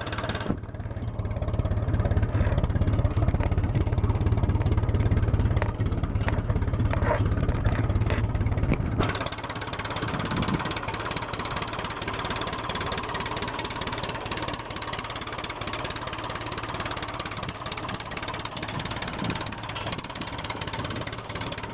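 Ferguson FE35 four-cylinder petrol/TVO tractor engine ticking over steadily. For about the first nine seconds a heavy low rumble lies over it, and it cuts off suddenly.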